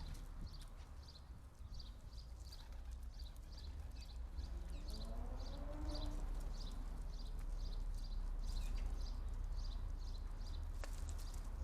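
A small garden bird calling, repeating one short high note about three times a second, over a steady low rumble.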